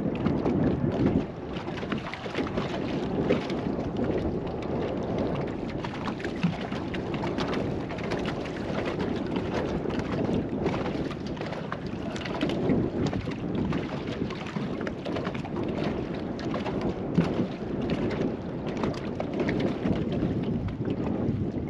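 Strong, gusty wind rumbling across the microphone, with choppy water lapping and splashing against a small fishing boat in many short slaps.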